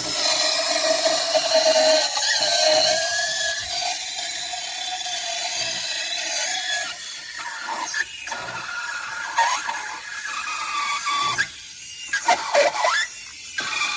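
MIROX espresso machine at work: a steady hiss with a wavering high whine. It breaks up into uneven bursts and short gaps over the last several seconds.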